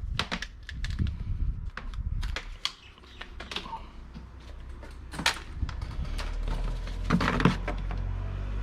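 Hard plastic items being handled and set down: irregular light clicks and knocks, with a low steady rumble underneath from about six seconds in.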